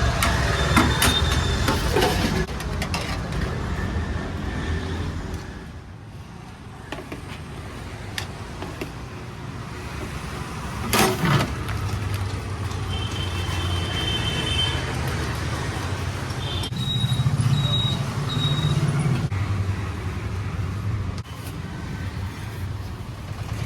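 Street traffic: passing vehicle engines make a steady rumble that swells and eases, with a sharp short noise about eleven seconds in and a few short high beeps later on.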